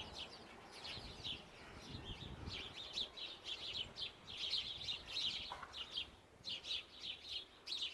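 Small birds chirping: a steady run of quick, high chirps, several birds calling over one another.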